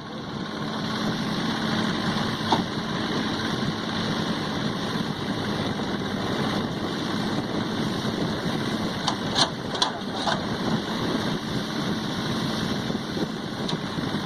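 Diesel tractor engine running steadily. A few brief, sharp high-pitched sounds cut through about nine to ten seconds in.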